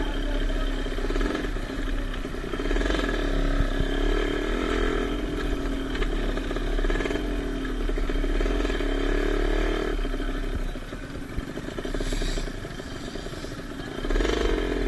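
Motocross motorcycles running on the track, engine pitch rising and falling with the throttle. They fade for a few seconds near the end, then a bike comes loud again.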